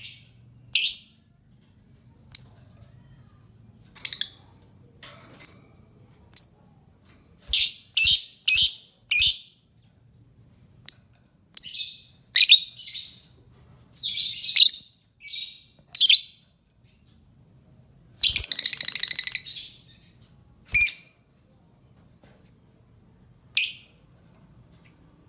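Lovebird calling: a string of short, sharp, high-pitched chirps at irregular intervals, some in quick runs, with a longer buzzing trill lasting about two seconds a little past the middle. A faint steady high tone runs underneath.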